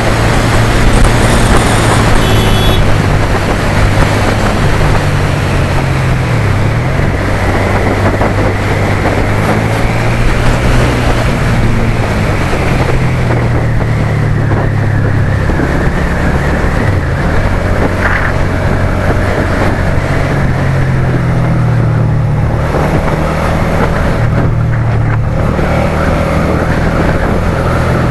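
Suzuki SFV650's 645 cc V-twin engine running under way on a ride, its note dipping and rising as the revs change, over a steady noisy rush.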